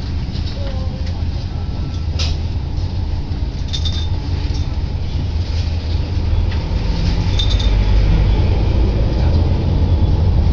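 Diesel railcar running, heard from inside the carriage: a dense low rumble that grows louder in the second half. A sharp click comes about two seconds in, and light clinks come about four and seven and a half seconds in.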